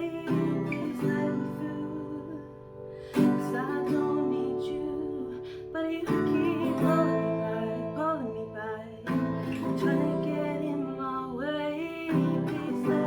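Acoustic guitar playing sustained chords, a new chord struck about every three seconds, with gliding melodic notes above.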